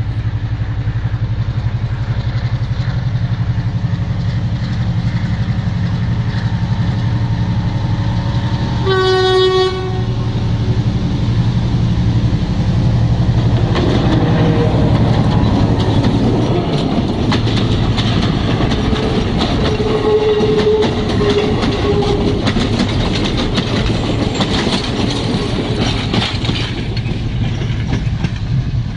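Diesel locomotive approaching and passing close by. Its engine drones steadily and the horn sounds once, for about a second, a third of the way in. From about halfway, wheels clatter rhythmically over the rails as it goes past.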